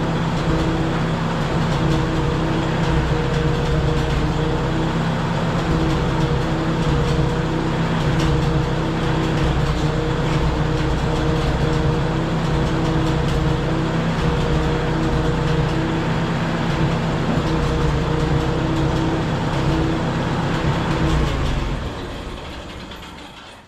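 Case 310 bulldozer engine running steadily at a constant speed, then dying away over the last couple of seconds.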